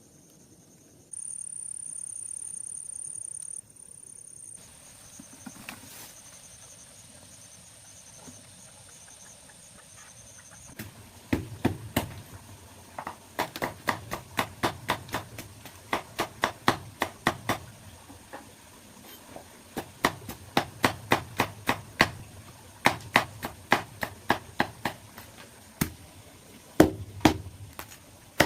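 Chopping: sharp knocks in quick runs of about two to three a second, with short pauses between runs, starting about eleven seconds in. Before that, a steady high-pitched buzz for a couple of seconds.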